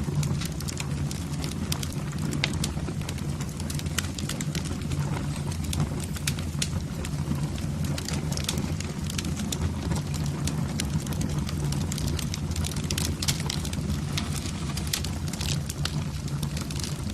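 Wood fire burning in a fireplace, crackling with many sharp, irregular pops and snaps over a steady low rumble of the flames.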